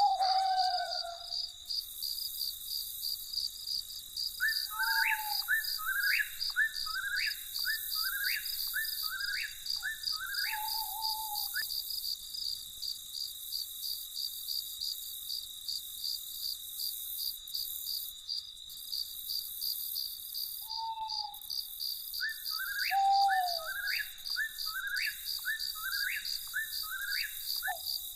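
Crickets chirring steadily with a fast, even pulse. Over them a night bird calls in two bouts of rising notes about one a second, mixed with a few lower, falling calls, with a pause between the bouts.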